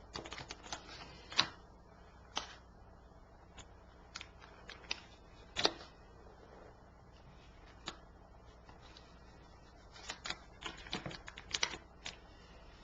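Tarot cards being shuffled and handled: a scatter of sharp card flicks and taps, in clusters at the start and again near the end.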